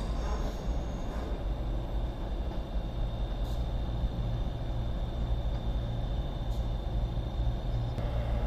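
Diesel engines of a pair of Class 221 Super Voyager trains running at a platform: a steady low rumble with a thin, steady high whine, swelling slightly near the end as the train gets ready to depart.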